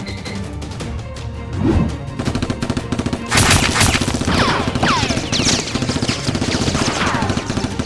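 Background action music, joined about three seconds in by rapid gunfire sound effects, a dense run of shots with several falling, whistle-like sweeps among them.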